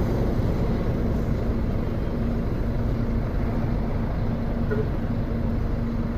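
Intercity coach's engine running steadily: a low rumble with a faint steady hum and no change in pace.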